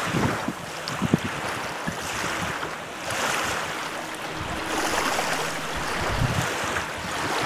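Choppy lake waves washing and splashing in a strong wind, the water noise swelling every second or two, with gusts buffeting the microphone.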